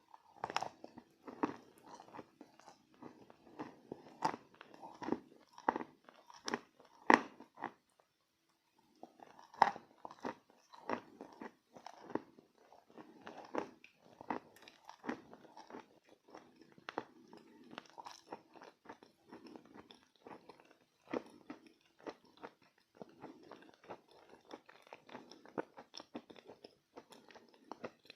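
Pieces of chalk coated in clay paste being bitten and chewed close to the microphone: a run of crisp, irregular crunches with a short pause about eight seconds in.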